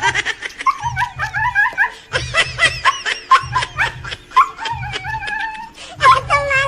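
Rapid dog yips and whines, short rising and falling calls, set over a repeating low bass beat, like a dog-sound music remix.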